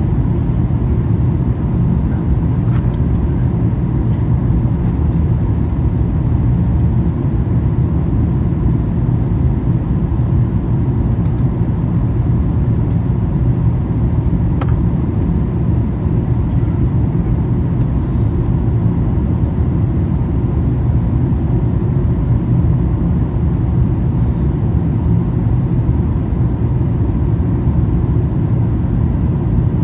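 Steady cabin noise inside a Boeing 737 MAX 8 in flight: the even rumble of airflow and engines, with a faint steady whine above it.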